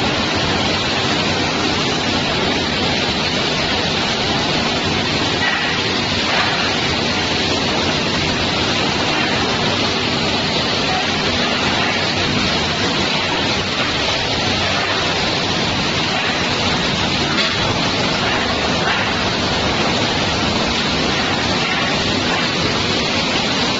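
Automatic plastic crate washer for live-bird transport crates running: a steady rush of water jets spraying the crates.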